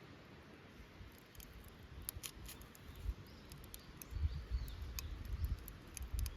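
Tending a small wood fire: scattered sharp clicks and crackles from about two seconds in, with several dull knocks from handling the firewood in the last two seconds.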